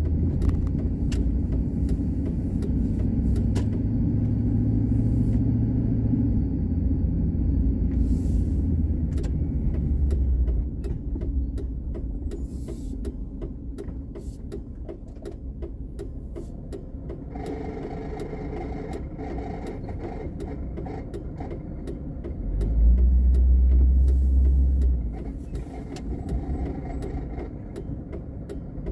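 Car driving, heard from inside the cabin: a steady low rumble from the engine and tyres, with a louder low surge for a couple of seconds near the end.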